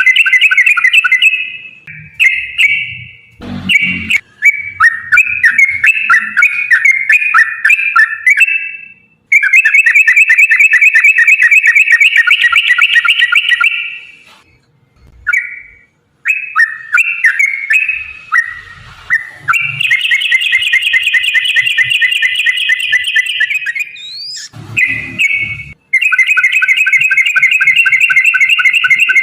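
Yellow-vented bulbul (trucukan) song: long, rapid runs of bubbling, chattering notes in several phrases, each a few seconds long, with short pauses between them.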